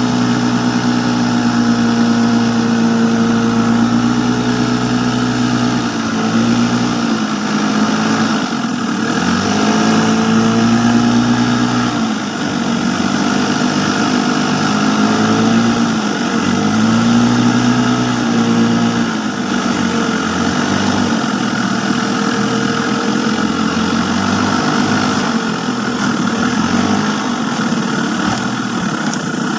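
A motor engine running steadily, its pitch dipping and climbing back several times as the throttle is eased and opened again.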